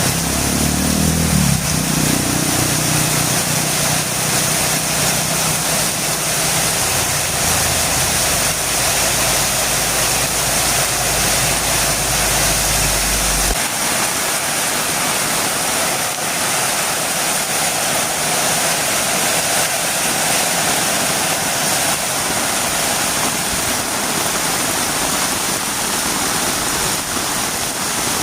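Heavy rain falling steadily on a road, an even loud hiss. A low hum runs under it for about the first half and stops abruptly about halfway.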